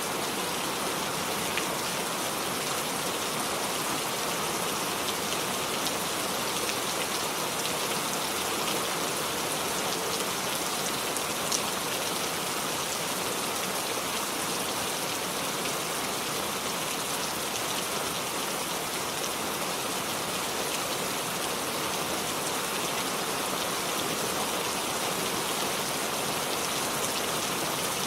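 Steady rain falling, a dense even hiss of drops hitting surfaces, with a few individual drops ticking out of it.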